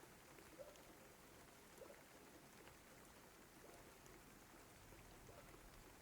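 Faint, steady rain falling, an even patter with a few separate drips standing out every second or so.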